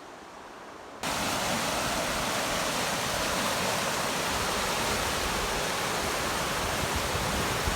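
Steady rushing noise that cuts in abruptly about a second in and holds level.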